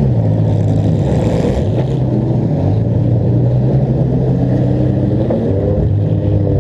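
Demolition derby car's engine, heard close from the car's own hood, running loudly and revving up and down as the car drives across the dirt arena.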